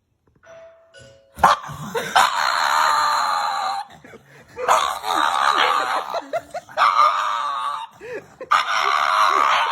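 A dog giving long, loud, harsh cries, four of them, each lasting one to two seconds, with short softer sounds in between.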